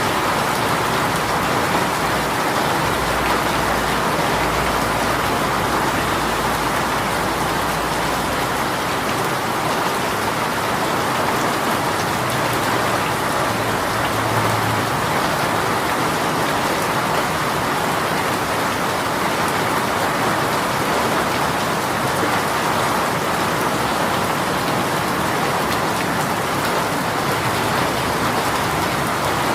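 A heavy rain shower falling steadily: a dense, even hiss of raindrops on surfaces.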